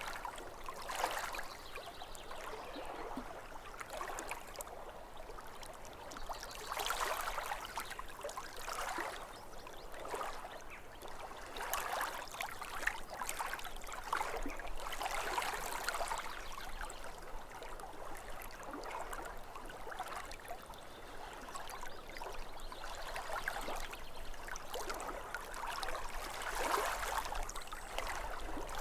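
Small waves of lake water lapping at the shore, splashing and trickling in irregular swells every few seconds.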